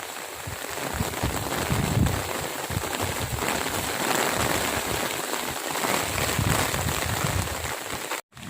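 Steady rain falling, with irregular low buffeting on the microphone. The sound cuts out completely for a moment near the end.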